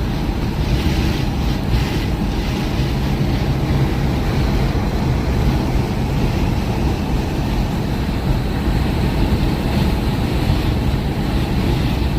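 Steady rumble of a vehicle driving along a road, with engine and tyre noise and wind buffeting the microphone.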